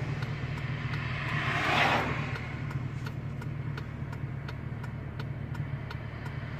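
Truck engine idling steadily while stopped, with a light, regular ticking at about three a second from about two seconds in.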